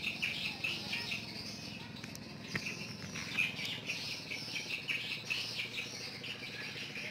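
Birds chirping in quick, repeated high calls, easing off briefly about two seconds in.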